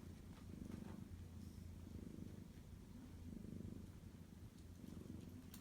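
Mother cat purring softly and steadily, the purr swelling and fading with each breath.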